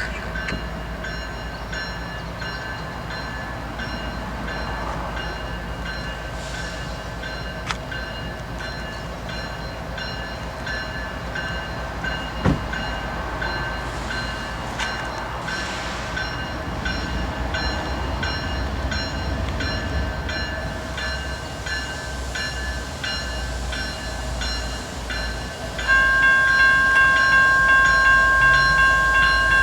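A freight train running, with a steady low rumble and faint ringing tones. Near the end the locomotive's horn starts suddenly, a loud multi-note chord that holds.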